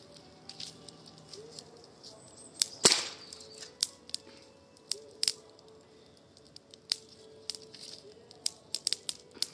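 Burning wood crackling in a campfire, with irregular sharp pops, the loudest about three seconds in.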